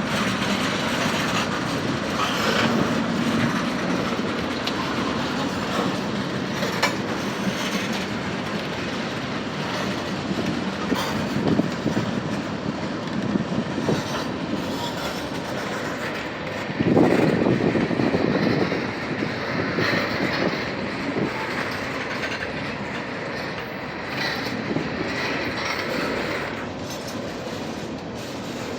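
Freight train cars rolling slowly along the track, wheels clicking over rail joints with an intermittent squeal of steel wheels on rail. The sound grows louder for a couple of seconds about two-thirds of the way through.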